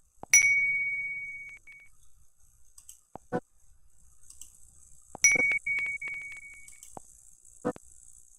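An app's button-click chime: a bell-like ding that starts suddenly and rings away over about a second and a half. It sounds twice, near the start and about five seconds later, and a few soft mouse clicks fall in between.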